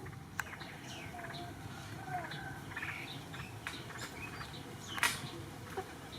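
Birds chirping in many short, high calls, with a few sharp clicks mixed in; the loudest click comes about five seconds in.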